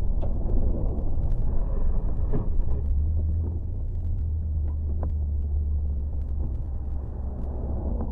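Car driving: a steady low rumble of engine and road, with scattered light ticks and knocks.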